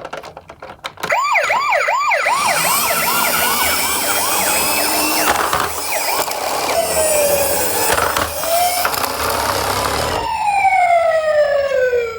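Siren: a fast, repeating yelp, then a wash of hiss with slower wailing glides, ending in a long wail that falls in pitch.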